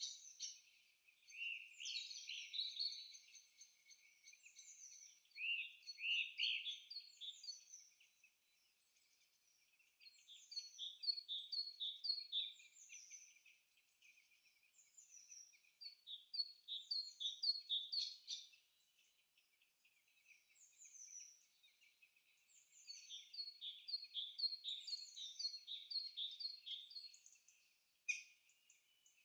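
Songbird singing: phrases of quick, repeated downward-sweeping chirps a few seconds long, broken by short pauses.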